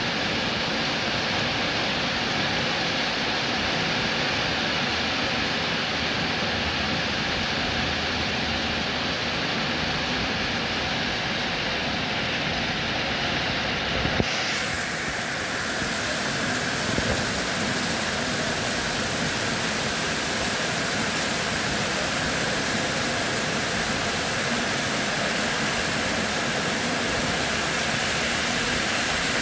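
Steady rain making an even, continuous hiss. About halfway through, the hiss suddenly turns brighter and fuller in its upper range.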